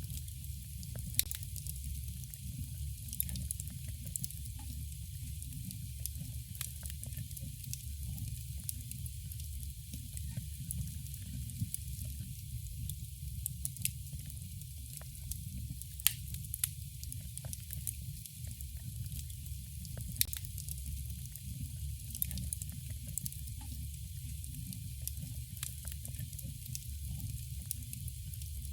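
Campfire burning: a steady low rumble and hiss with continual crackling, and a few sharp louder pops, the loudest about halfway through.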